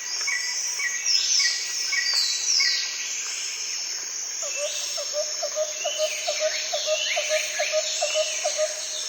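Several birds chirping and whistling: repeated short chirps and falling whistled calls, joined about halfway through by a run of quick, evenly spaced lower notes, about three a second.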